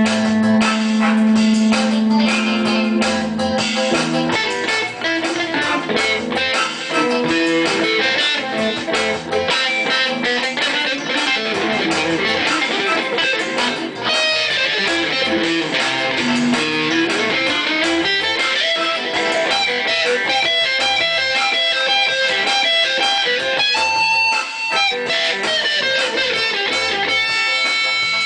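Electric guitar playing a busy melodic line, fast runs of notes mixed with a few held notes.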